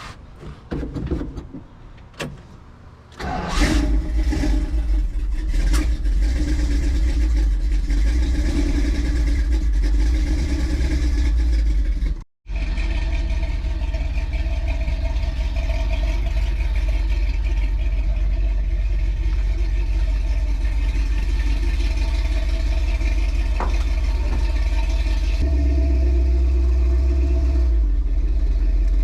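1972 Ford Ranchero's engine catches about three seconds in after a few knocks, then runs steadily and loudly. The sound cuts out for an instant about twelve seconds in.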